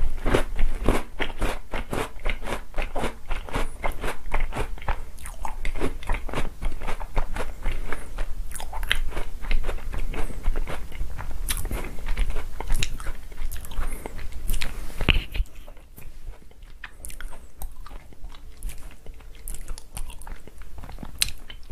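Close-up chewing of a mouthful of chocolate cookies from a bowl of chocolate milk: steady crunching chews, about three to four a second, that die down about 15 seconds in to softer, sparser chewing.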